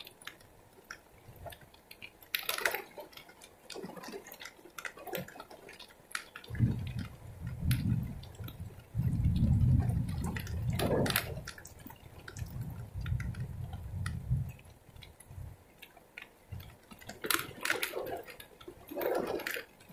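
Heavy rain falling, with close drops dripping and spattering in sharp, irregular ticks. A low rumble comes and goes from about six to fourteen seconds in.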